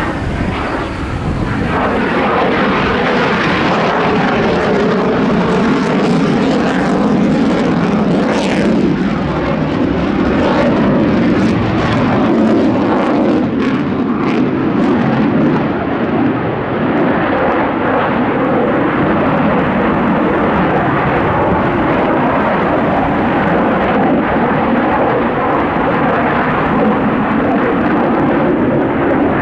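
JASDF F-15J fighter jet flying a display pass, its twin turbofan engines producing a loud, continuous jet noise. The highest hiss fades out about halfway through while the lower noise stays strong.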